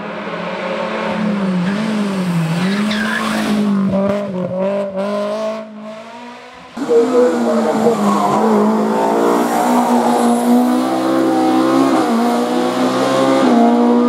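Hill-climb race car engines at full throttle: one car's engine pulls away and fades, then after an abrupt cut a second race car is heard loud and close, its engine note climbing and dropping back as it shifts up through the gears.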